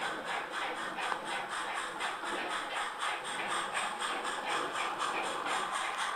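Model railway locomotives running on the garden layout track: a steady running and rattling noise with an even rhythm of a few beats a second.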